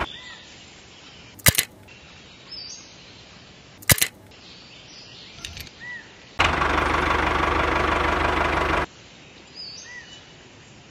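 Small electric motor of a homemade toy tractor running steadily for about two and a half seconds in the second half, after two sharp clicks earlier on. Faint bird chirps in between.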